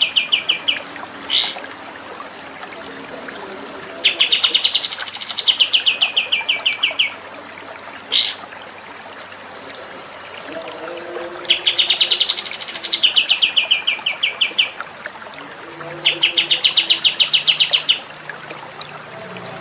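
A songbird singing fast rattling trills of about ten notes a second, each phrase a few seconds long and rising then falling in pitch. The phrases repeat four times with pauses between them, and a single quick upward-sweeping whistle comes twice in the gaps.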